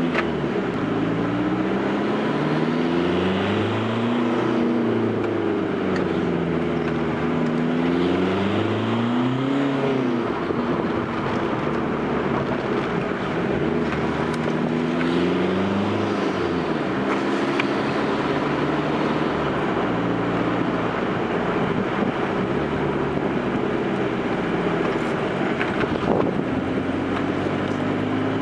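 Fiat Grande Punto's 1.9 Multijet four-cylinder turbodiesel accelerating hard through the gears. The engine note climbs and drops back with each gear change several times in the first ten seconds, then holds steadier and rises slowly in a higher gear.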